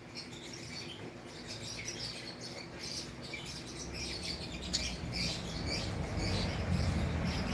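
Small birds chirping in quick, irregular high calls, with a low rumble rising from about five seconds in.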